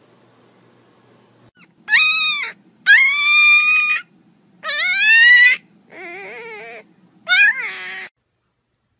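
Young puppy whining in five high-pitched cries, most rising and then holding; the fourth is lower and quieter.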